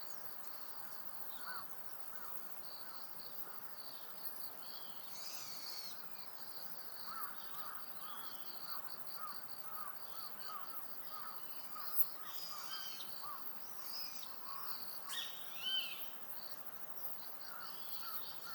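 Birds calling outdoors: a run of short, repeated arched notes and a few higher chirps, over a steady pulsing insect trill. A single sharp click comes about two-thirds of the way in.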